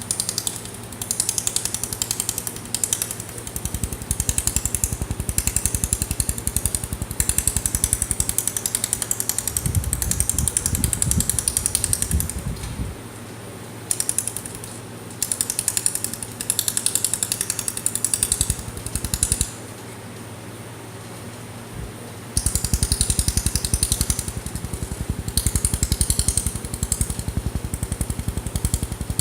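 Letter laser welding machine firing rapid pulses, a fast even ticking over a steady low hum, in long bouts broken by two short pauses.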